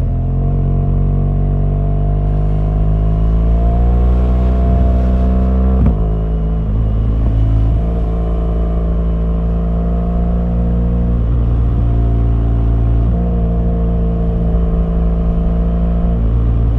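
BMW R1200GS boxer-twin engine pulling under load. The revs climb for about six seconds, then there is a gear change, and the engine runs on at a steady note with a few small changes of throttle.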